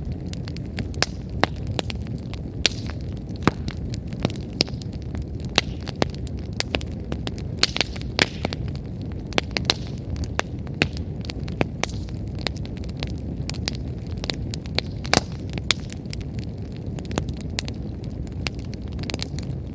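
Wood campfire burning: a steady low rush of flame with frequent, irregular sharp crackles and pops from the firewood.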